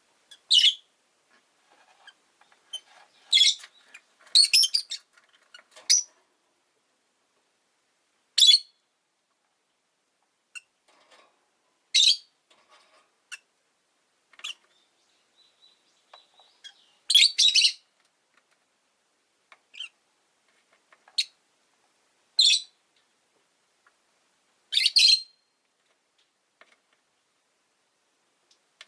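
Rosy-faced lovebirds giving short, shrill, high-pitched chirps: about ten sharp calls at irregular intervals, some in quick pairs, with quiet gaps between.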